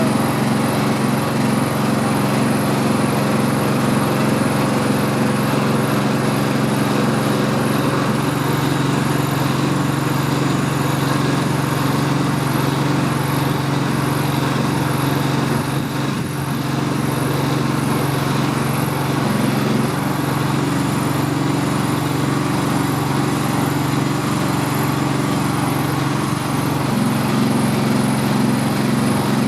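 Small 420cc gas engine running steadily at a constant speed, the power unit that drives the tow truck's wrecker boom and wheel lift.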